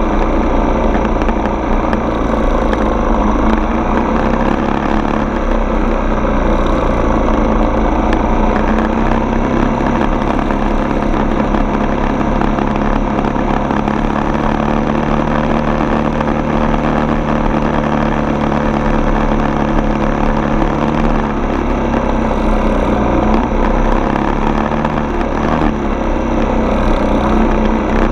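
Single-cylinder four-stroke dirt bike engine running steadily, its pitch shifting a little now and then.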